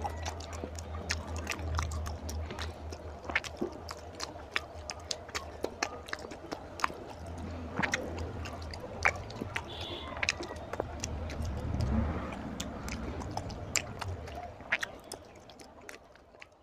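Wet chewing and mouth clicks of a man eating soft, syrup-soaked roshgolla, with a low hum underneath. It fades away near the end.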